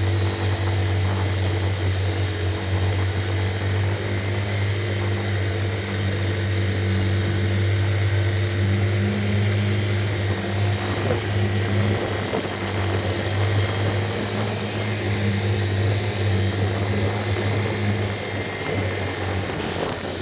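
Small engine, likely a motorcycle, running at a steady speed with a constant low drone and no revving.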